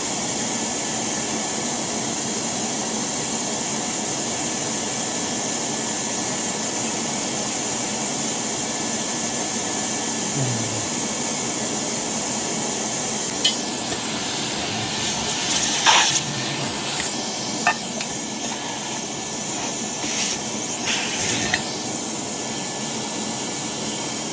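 Shop vacuum running steadily while gas boiler burners are cleaned, with several sharp metallic clinks and knocks in the second half as the metal burners are handled. The motor switches off at the very end and its whine falls away.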